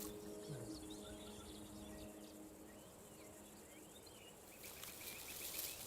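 Faint outdoor bush ambience with scattered small bird chirps and, near the end, a short rapid trill; the last of a music score fades out in the first moment.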